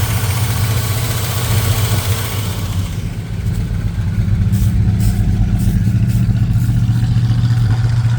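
Chrysler 440 cubic-inch big-block V8 with a four-barrel carburettor running at a steady idle on a cold start after long storage. About three seconds in, a hiss over the engine drops away, and a few light ticks come through over the idle.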